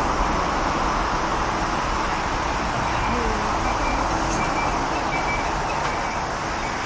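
Boeing 747-400 with four Rolls-Royce RB211 turbofans, a steady broad jet roar with a deep rumble as it climbs out after takeoff, easing off slightly near the end.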